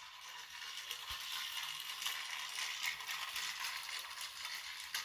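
Battery-powered toy train set running: small gear motors and plastic wheels rattling along plastic track with a dense stream of fine clicks, and a sharper click near the end.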